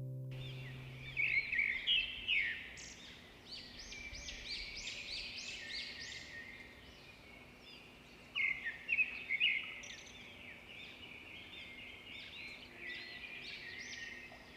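Birds chirping and singing, many quick high chirps overlapping, with louder flurries about a second in and again around eight seconds in.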